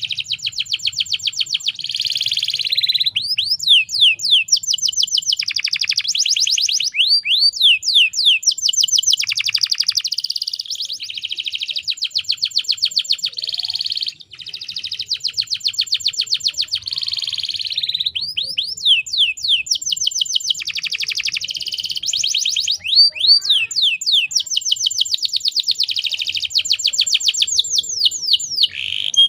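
A canary singing a long, unbroken song of rapid trills. Each phrase is a fast run of repeated notes, some sweeping downward, and a new phrase takes over every second or two, with a brief break about fourteen seconds in.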